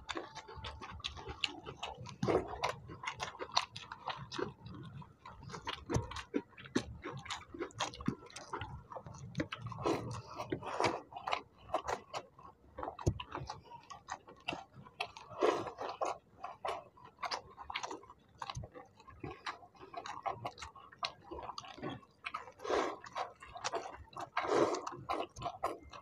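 Close-up chewing and wet mouth smacks of people eating watered rice (panta bhat) and fried sides by hand: a quick, irregular run of clicks and smacks.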